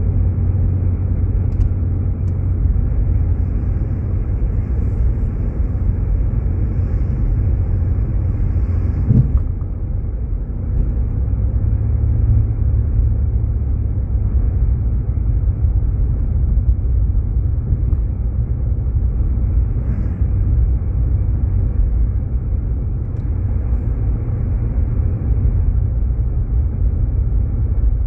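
Steady low rumble of road and engine noise inside a Jeep Grand Cherokee's cabin while driving, with one brief thump about nine seconds in.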